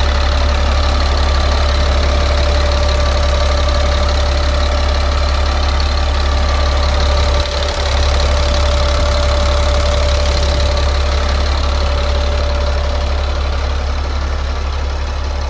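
Caterpillar 3126 diesel engine of a Freightliner FL60 truck idling steadily, with a brief dip in level about halfway through.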